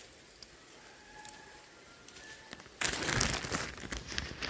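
Foliage rustling and crackling as the butterfly pea vine is handled and flowers are picked, starting suddenly a little under three seconds in, after a quiet stretch.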